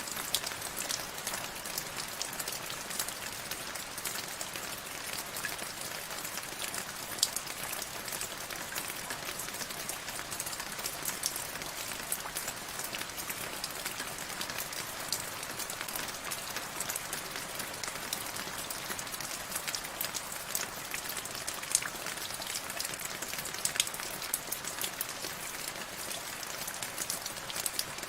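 Steady rain with many separate drops ticking sharply on a surface over a continuous hiss.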